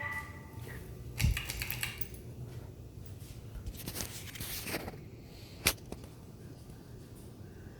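Hunter Original ceiling fan being switched from low to medium speed: bursts of rattling clicks, then one sharp click late on, over the fan motor's low steady hum.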